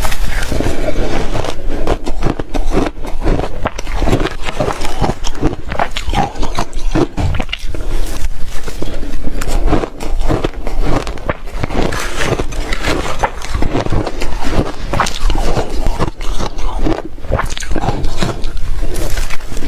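Soft, reshaved refrigerator ice being bitten and chewed. It is a dense, unbroken run of crisp crunches and scrapes.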